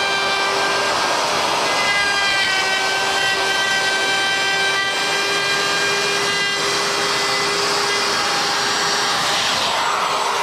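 Electric wood router running steadily with a high motor whine, cutting wood. Its pitch wavers and dips briefly about two seconds in as the bit takes load.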